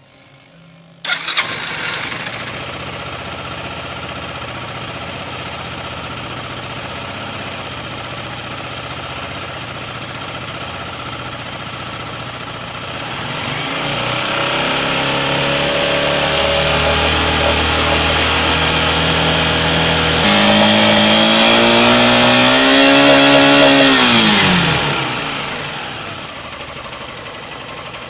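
Motorcycle engine starting about a second in and settling into a steady idle. It is then held at raised revs, stepped higher again with a slow rise in pitch, and dropped back to idle near the end.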